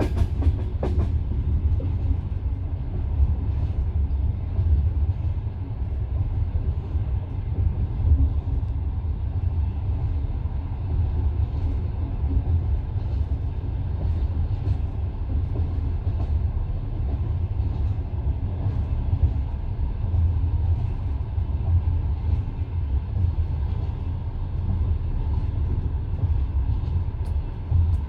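Passenger railway carriage running on the line, heard from inside the car: a steady low rumble of the wheels on the rails, with faint irregular clicks of wheel and rail.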